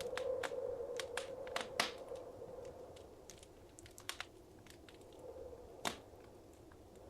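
Wood fire crackling: irregular sharp pops and snaps over a low steady rush. The pops cluster in the first two seconds, and a single louder pop comes about six seconds in.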